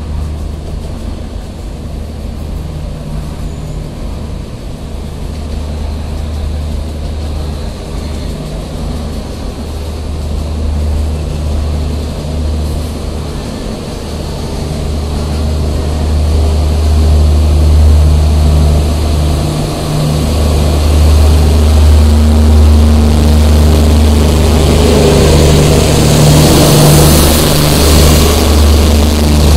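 A passenger train moving past along the platform, with a steady low diesel engine hum that gets louder from about halfway through. A rushing noise from the passing train builds near the end.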